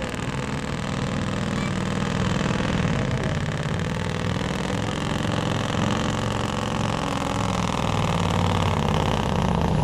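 Supersport pulling truck's engine running loudly and steadily, a deep drone, from the Peterbilt 'Murphy's Law'.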